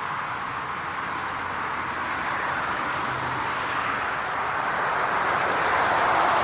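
Jet aircraft engine noise, a steady rush that grows gradually louder as the plane comes nearer.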